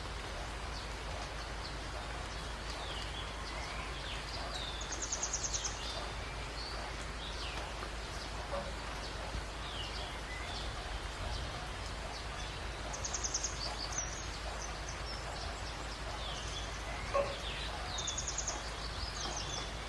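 Many small birds chirping, with scattered short high notes and a fast pulsed trill that comes three times, each lasting about a second, over a steady hiss. One short sharp tick stands out near the end.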